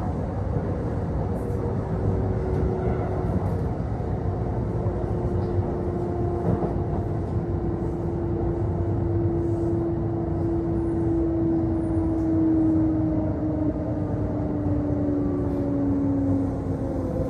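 Inside a Kintetsu Osaka Line local train standing at a station with its doors open: steady hum of the train's onboard equipment, with a humming tone that slowly falls in pitch through the second half.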